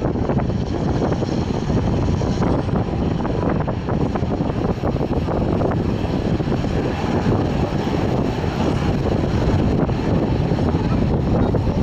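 Strong gusty wind buffeting the microphone, a steady heavy rumble.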